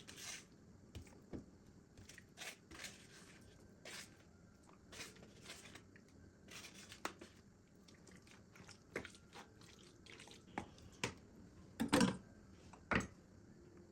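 Faint handling noises: a scattered series of short crinkles, rustles and light taps, with two louder sharp knocks near the end.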